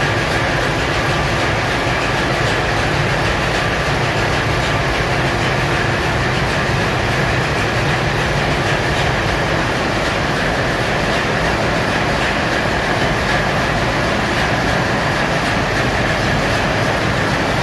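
Loud, steady machinery din in the engine room of a VLCC crude oil tanker: the ship's engines and auxiliary machinery running together, a deep rumble under a constant whine.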